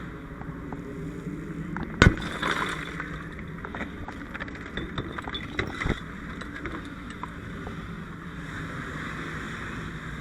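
A sharp crack about two seconds in, followed by a few seconds of scattered clinks and crackles, over a steady low mechanical rumble.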